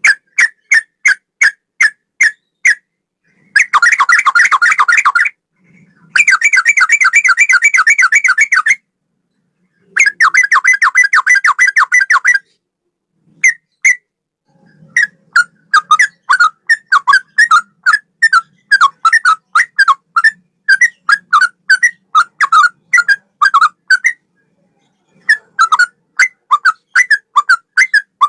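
Yellow-vented bulbul (trucukan) singing: short, clear whistled notes repeated about three a second, broken in the first half by three fast chattering trills of two or three seconds each, then a long run of quick notes with brief pauses.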